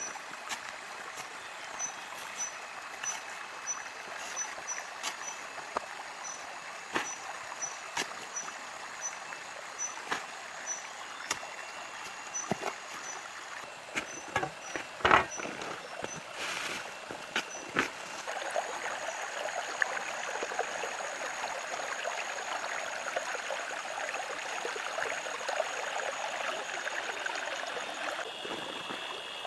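Steady rushing water, like a stream, that grows louder about two thirds of the way through. Scattered sharp clicks and knocks sound over it, the loudest cluster about halfway. A run of short, evenly spaced high chirps and then a thin steady high tone sit above it.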